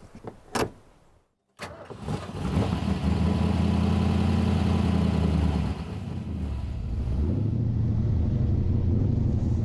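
AC Cobra's V8 engine starting. It catches about a second and a half in, runs fast and loud for a few seconds, then drops to a steadier, lower idle about six seconds in.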